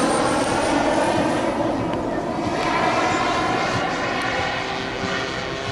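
Engine of a giant-scale radio-control model airplane in flight, a steady propeller drone that slowly fades as the plane moves away.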